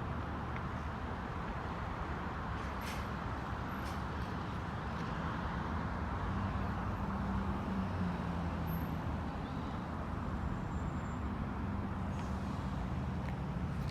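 Steady vehicle noise: a low engine hum that shifts slightly in pitch over an even rushing noise.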